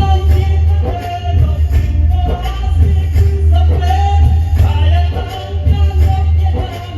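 A song: a singing voice over backing music with a strong bass and a steady beat.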